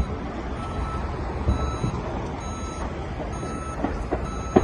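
Vehicle reversing alarm beeping in short, evenly spaced high beeps over a steady low rumble.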